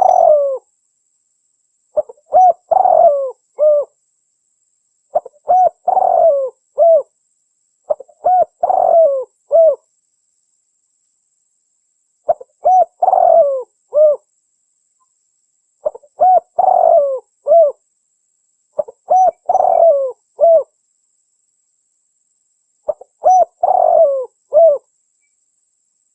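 Spotted dove (tekukur) cooing, from a lure-call recording used to attract wild doves: about eight phrases of several coos each, every phrase about two seconds long with dead silence between them.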